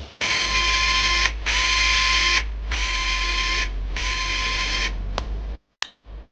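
A small electric motor, like a handheld repair tool, running in four short bursts of about a second each with brief pauses between them, followed by a few faint clicks.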